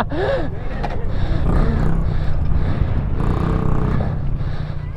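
Honda CRF50 pit bike's small single-cylinder four-stroke engine running steadily as it is ridden.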